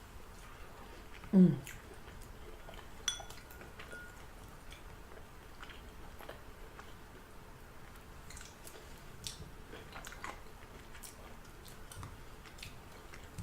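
A person chewing food close to the microphone, with scattered soft mouth clicks and smacks; a short hummed "mm" of enjoyment about a second in, and a light clink near three seconds in.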